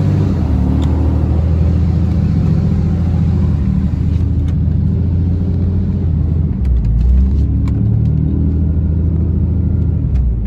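Dodge Ram pickup truck towing a loaded gooseneck trailer: a steady low rumble of engine and road noise, the engine's pitch stepping to a new level a few times as the truck pulls along.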